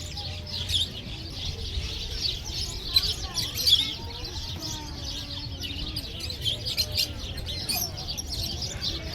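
Many small birds chirping and twittering at once in a dense, continuous chorus of short high calls, with faint voices beneath.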